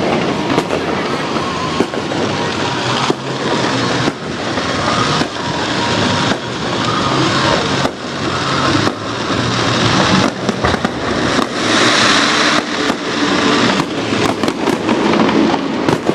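Fireworks display going off: repeated bangs with crackling in between. The crackle swells about two-thirds of the way through, and a quick run of bangs follows near the end.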